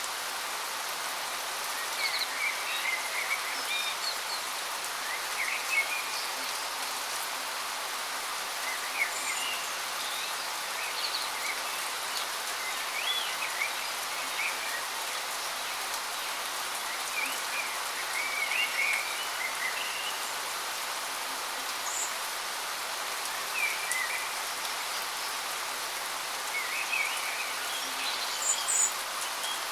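Steady rushing of a waterfall, with short bird chirps and calls scattered throughout.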